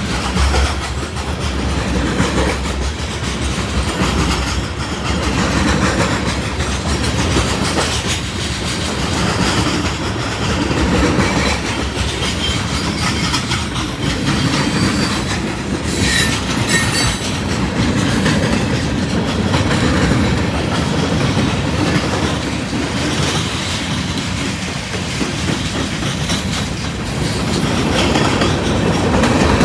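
A train rolling past, its wheels clattering steadily over the rail joints, with brief high wheel squeals around the middle.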